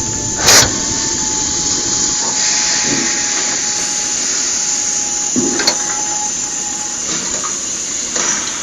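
Steam locomotive hissing steadily as it vents steam, with a few slow, soft chuffs and a faint held tone. Two sharp clacks, about half a second in and near six seconds.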